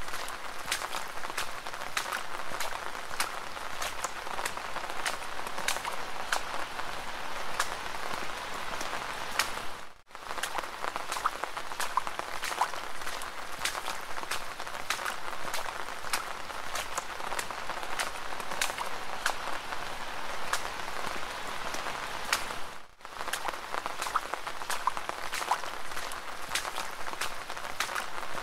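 Steady rain with dense, sharp drop ticks, cutting out for an instant twice.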